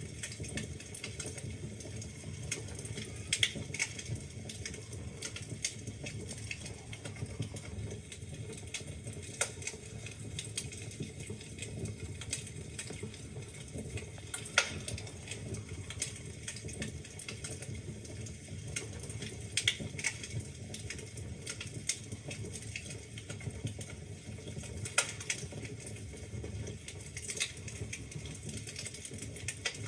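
Wood fire crackling in a fireplace: a steady low rumble of burning with frequent small irregular crackles and a few louder pops.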